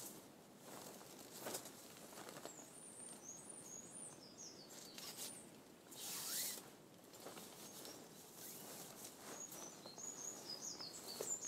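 Small birds singing in woodland: two runs of quick, high chirping notes over faint background noise, with a brief burst of noise about halfway through.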